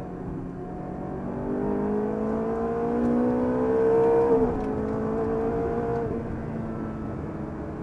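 Ferrari F430's V8 engine heard from inside the cabin, climbing in pitch under hard acceleration. About four and a half seconds in the pitch drops sharply at a gear change, then holds. It falls away near six seconds as the throttle comes off.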